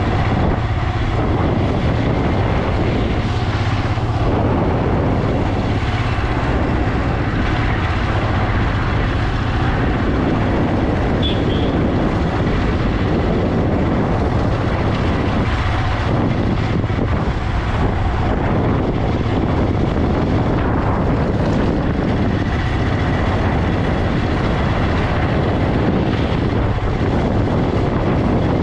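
Motorcycle running at road speed, its engine drone mixed with steady wind rushing over the microphone.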